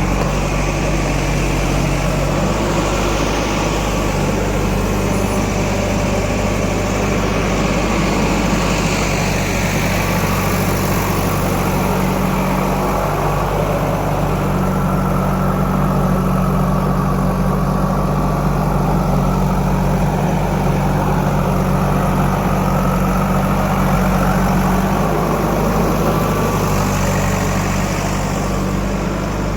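Heavy diesel engine running steadily, its note shifting a few times as the revs change slightly.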